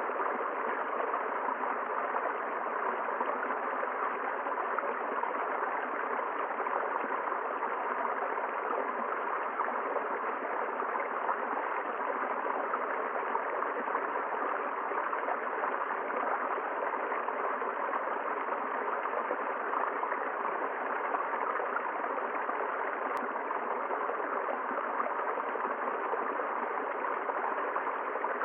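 River water flowing: a steady, even rush with no pauses.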